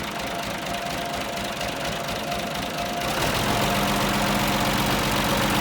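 Tractor engine running with a steady pulsing beat, growing louder and fuller about three seconds in as it picks up.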